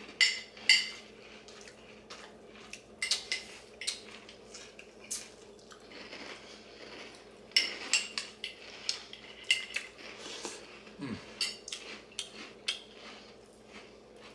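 A spoon clinking and scraping against a cereal bowl while someone eats cereal with milk, in irregular sharp clinks every second or so.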